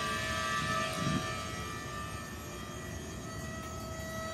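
Steady mechanical drone made of several unchanging tones over a noisy rumble, with a soft low thump about a second in.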